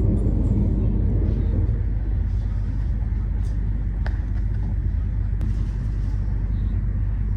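Commuter train running along the track, heard from inside the carriage: a steady low rumble with a few faint clicks.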